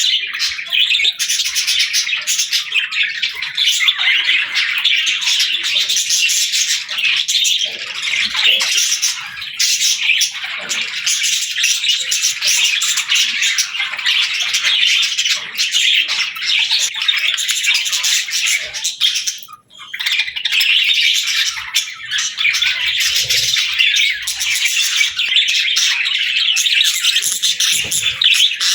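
A flock of budgerigars chattering and chirping continuously, many high, quick overlapping calls at once with occasional squawks. The chatter drops out briefly about two-thirds of the way through.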